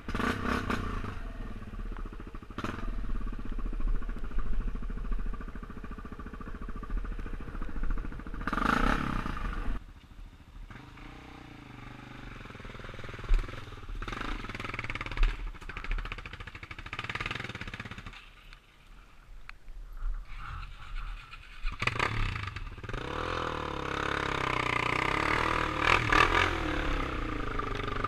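Motorcycle engine running and revving, its note rising and falling. It eases off about ten seconds in, nearly drops away around nineteen seconds, then revs up again near the end.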